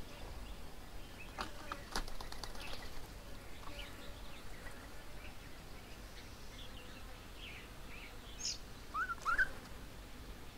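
Birds at a garden feeding table: scattered short, high chirps and a few sharp taps about two seconds in, then two quick rising calls near the end.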